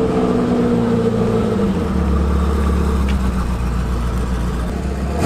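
A car engine running. Its pitch falls gently over the first two seconds, then holds at a steady deep drone.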